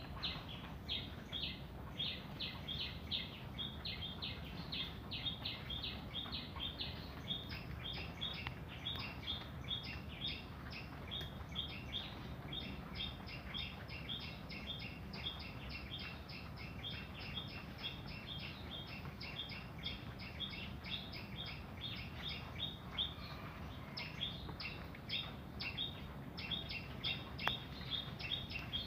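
A bird chirping rapidly and repeatedly, several short high chirps a second without a break, over a steady low background noise.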